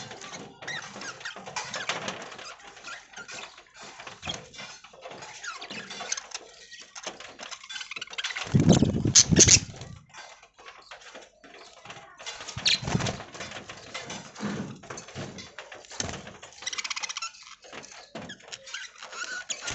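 Budgerigars chattering and scratching about, with many small clicks and rustles. About eight and a half seconds in there is a loud rustling knock lasting about a second.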